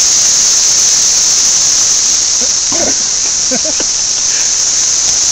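Cicadas singing in a dense chorus, a steady high-pitched buzz that does not let up.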